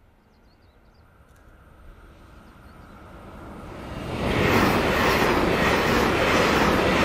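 Diesel express multiple-unit train approaching round a curve, growing steadily louder over about four seconds, then passing close by with the loud rumble of its engines and wheels and a rhythmic clatter of wheels over rail joints.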